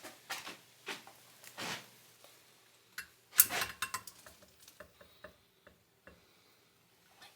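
Irregular light clicks and knocks, with one sharper knock about three and a half seconds in, followed by a run of small scattered ticks that die away.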